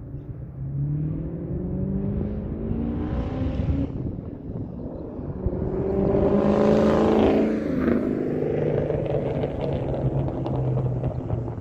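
2003 Mustang Mach 1's 4.6-litre V8 through a Carven aftermarket exhaust, revving up with rising pitch. It dips briefly about four seconds in, climbs again louder to a peak a little past the middle, then falls off sharply and settles to a steadier, lower rumble.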